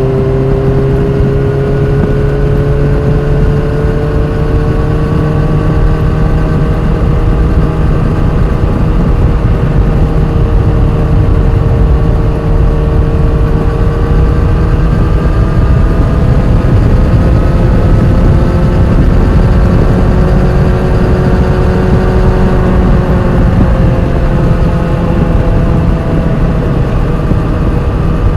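Motorcycle running with a steady low rumble and a high-pitched whine made of several tones that drift slowly up and down. The owner wonders whether the whine is normal straight-cut gear whine and is concerned about an undulating whirring that has been there since the bike was new.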